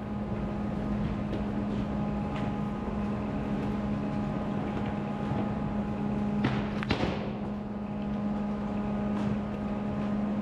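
An engine running steadily at an even pitch, with a short clatter about two-thirds of the way through.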